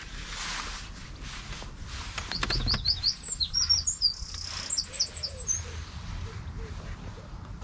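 A small songbird singing a quick run of high chirps and twitters, starting about two seconds in and lasting about three seconds.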